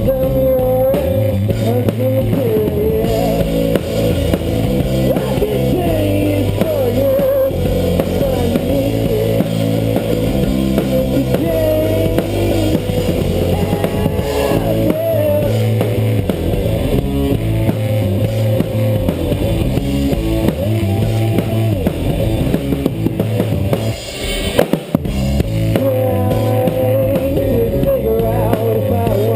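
Rock band playing live, an instrumental passage with drum kit, bass and guitar and a wavering melodic lead line above. The loudness dips briefly about 24 seconds in.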